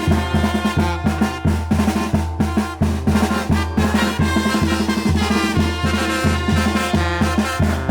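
Mexican banda (brass band) playing a chilena: snare and bass drum keep a busy, even beat over a steady low bass line, with brass holding the melody above.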